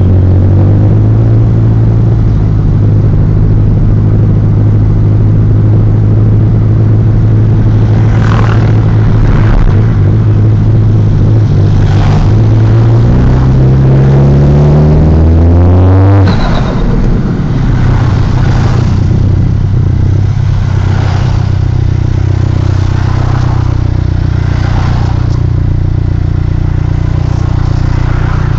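Car engine running steadily, revved up gradually for a few seconds about halfway through and then let drop back. Over it, a short hooting noise from the engine bay comes back every second or two, which the owner likens to pigeons cooing, or a ghost.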